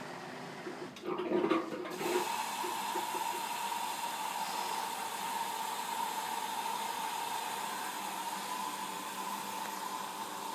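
Whirlpool AWO/R 4205 front-loading washing machine starting its cycle: after a short louder sound about a second in, water rushes steadily in through the detergent drawer to fill the drum, with a steady whine over the rush.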